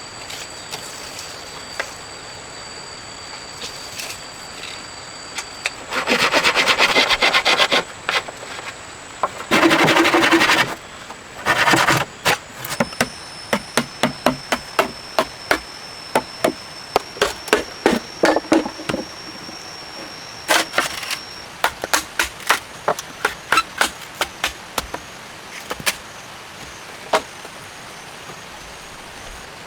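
Repeated chopping strikes on wood, about two a second, after two bursts of rapid strokes. Steady high insect buzzing runs underneath.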